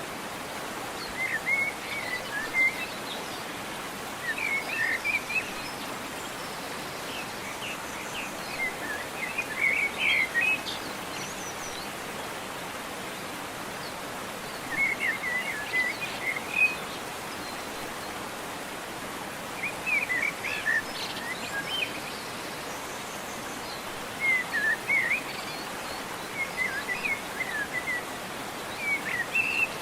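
Steady rush of a waterfall, with a songbird singing short chirpy phrases every few seconds over it.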